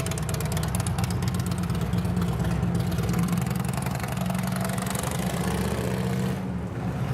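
2012 Honda CRF250R's 250cc single-cylinder four-stroke engine idling steadily.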